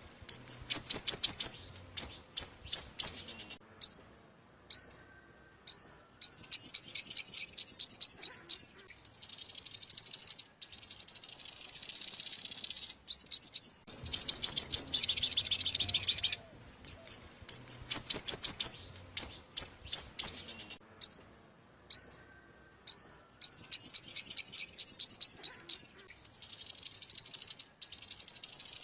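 Sunbird song used as a trapping lure call: loud, sharp high chirps that run into long, rapid trills of high notes. The whole sequence repeats about every 14 seconds, as a looped recording.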